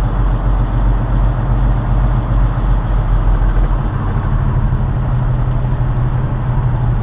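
Semi-truck diesel engine running steadily, heard from inside the cab as the truck pulls out slowly.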